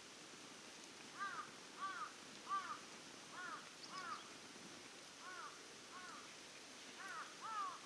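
An animal giving short, rising-and-falling calls again and again, in loose groups of two or three, about nine in all.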